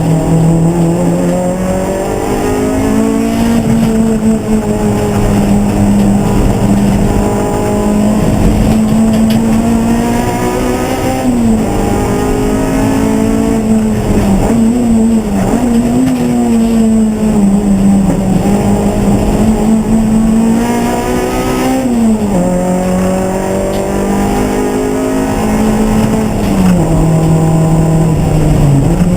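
Race car engine running hard, its pitch climbing and then dropping sharply several times as the revs rise and fall with throttle and gear changes.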